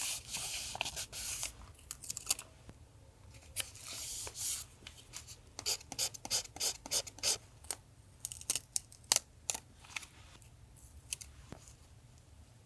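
Paper rustling, then a quick run of scissor snips cutting paper, with short pauses between them.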